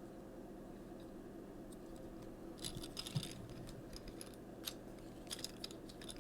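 Faint plastic clicks and light rattling from the parts of a Transformers Siege Hound action figure being handled and moved during its transformation, in small clusters about three seconds in and again near the end, over a steady low hum.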